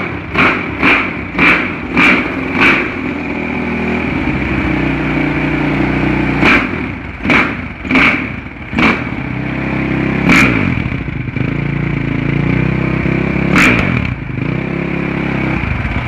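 Suzuki RM-Z450 single-cylinder four-stroke motocross engine running, with a quick series of sharp throttle blips in the first few seconds, then a steady idle broken by several more single blips. This is the bike before repair, with torn-up old silencer packing and an exhaust gasket the owner calls bad.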